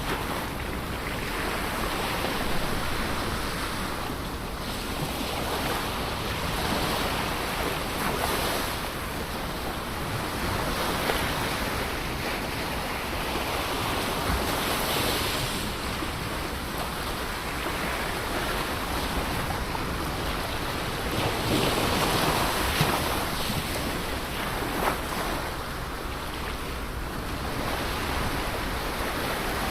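Ocean surf: waves breaking and washing ashore in a continuous rush that swells and eases every few seconds.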